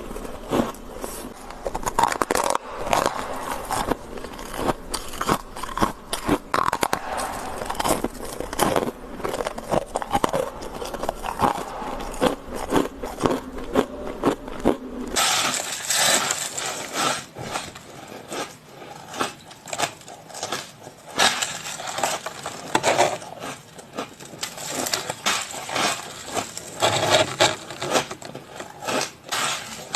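Close-miked biting and crunching of ice in the mouth: a dense run of crisp, irregular crunches and crackles. About halfway through, the crunching turns brighter and sharper.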